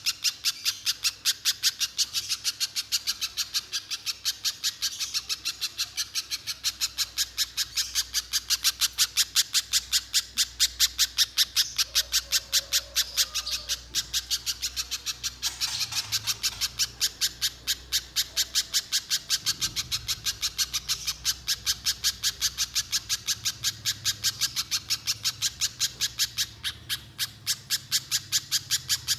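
Little spiderhunter calling: an unbroken, evenly paced series of sharp, high chips, several a second, the long continuous 'mbeset' call.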